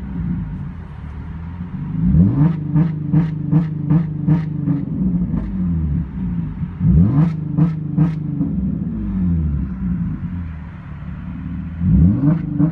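2005 Nissan 350Z's 3.5-litre V6, straight-piped with no muffler or resonator, revved three times: about two seconds in, about seven seconds in, and again near the end. Each time it holds against the launch-control rev limiter and makes sharp pops and crackles about three times a second, then drops back to a low idle between revs.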